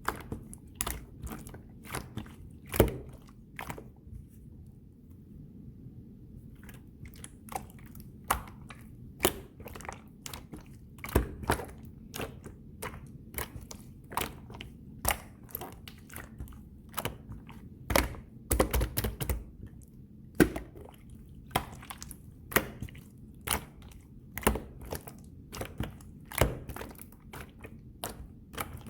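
Clear slime being squeezed and pressed by hand, giving irregular sharp clicks and pops, several a second, with a short pause about four seconds in.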